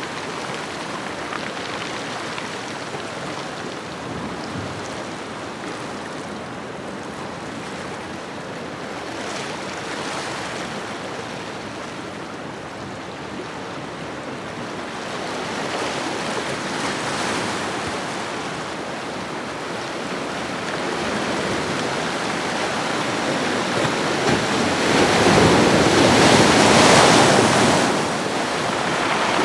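Ocean waves washing onto a shore: a continuous rushing surf that swells and ebbs, the biggest wave breaking about three-quarters of the way through and then falling away.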